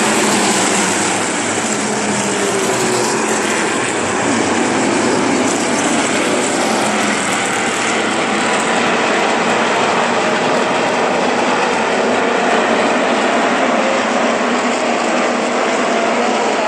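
NASCAR race trucks' V8 engines running at racing speed, a continuous loud din with engine pitches gliding up and down as trucks go by.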